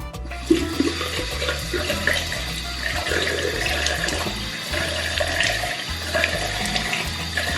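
Bathroom tap running into a sink, starting about a third of a second in, with irregular splashing of water in the basin.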